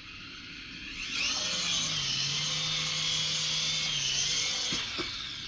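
Syma S54H toy RC helicopter taking off: its small electric motors whine and its rotor blades buzz. The sound comes up quickly about a second in, runs steady, and eases off near the end.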